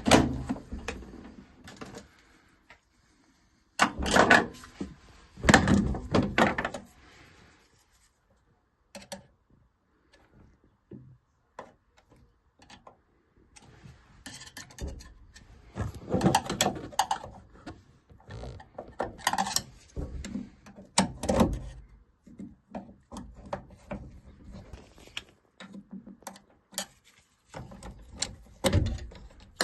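Irregular knocks, clicks and scrapes of hands and tools working on a gas boiler's internals, in short clusters with quiet gaps between them.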